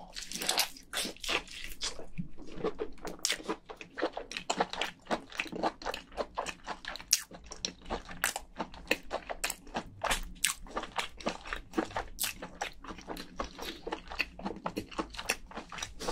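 A person chewing a mouthful of soft cooked lobster meat: a close, steady run of quick wet chewing clicks.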